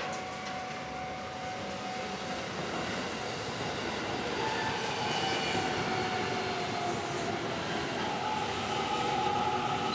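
JR West electric train running on the Tokaido Main Line tracks, its rumble growing steadily louder, with a faint high whine that drops slightly in pitch.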